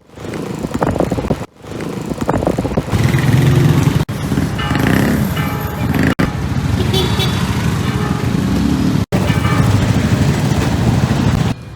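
Motorcycle riding noise, engine and wind rumble from the Suzuki Skydrive 125 scooter, over background music. The sound breaks off abruptly several times, as short clips follow one another.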